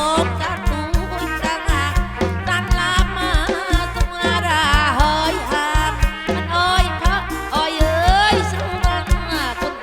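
Live kantrum folk music played through a PA system: a steady drum beat under a wavering, ornamented melodic lead.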